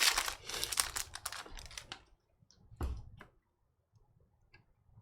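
Foil trading-card pack wrapper crinkling and tearing as it is opened, for about two seconds, then a single knock about three seconds in and a few faint clicks of card handling.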